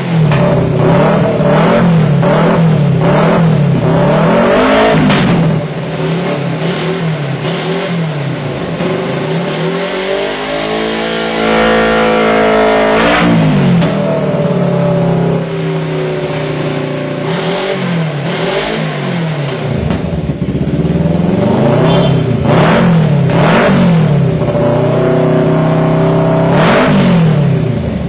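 Kawasaki Ninja motorcycle engine revved repeatedly through an aftermarket dual-sound exhaust with a remote-controlled valve: quick throttle blips about one a second, a longer rev near the middle, then more blips. The overall loudness steps down a few seconds in and back up before the long rev.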